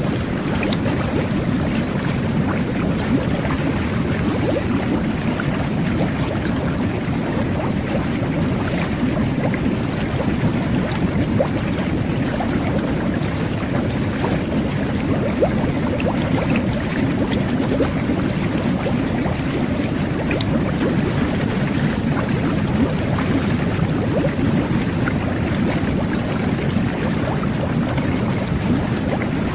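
Jet bath's water jets running steadily, a dense churning of water and air bubbles flecked with small pops.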